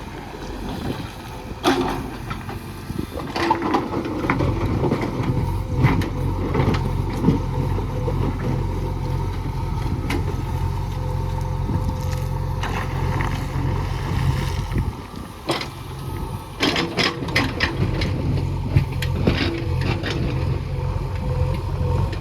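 Heavy diesel earth-moving machinery working, its engine running steadily under load with a brief drop about fifteen seconds in. Sharp knocks come at intervals, several in quick succession shortly after the drop.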